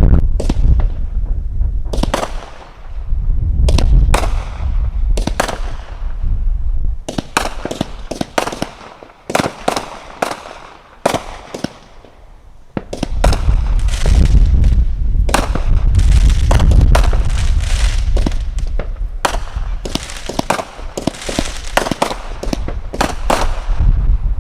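Consumer firework cakes going off: rapid sharp reports and crackling bursts over deep booms. The firing thins out for a few seconds in the middle, then builds back into a dense barrage.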